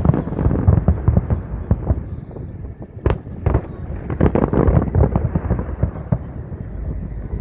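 Fireworks going off in quick succession: a dense run of bangs and crackles, with one sharp report about three seconds in.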